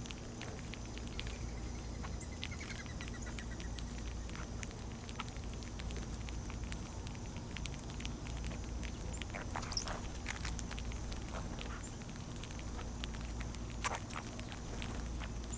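Small birds feeding on scattered seed: irregular light pecking and scratching taps with a few short chip calls, over a steady high drone and a low hum.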